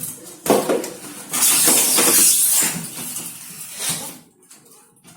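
A knock, then a loud hiss lasting a second or so that fades away, with smaller clatters around it.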